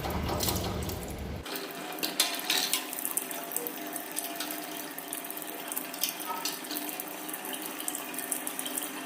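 Water running out of a booster pump's pressure tank as it drains, a steady rushing with scattered small clicks and knocks over it.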